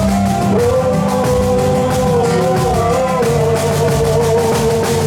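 Toada, Amazonian boi-bumbá music, played by a band: a steady percussion beat under a held melody line.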